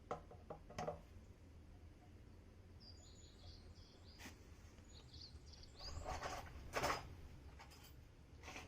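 Faint bird chirps over a low steady background hum, with a few short knocks and rustles, the loudest of them about six to seven seconds in.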